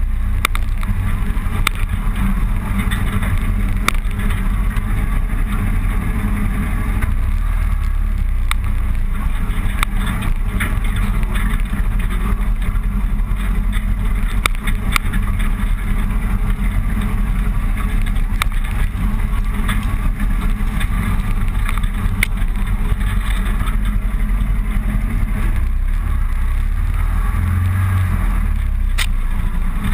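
Onboard sound of a motorcycle riding steadily along a road: engine running under a continuous heavy low rumble, with no change in pace.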